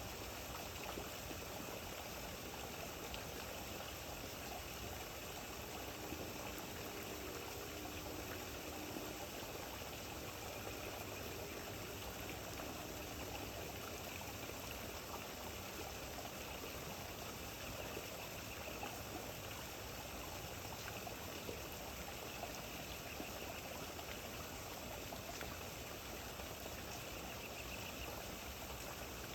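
Steady rain falling, an even, continuous wash of noise without breaks.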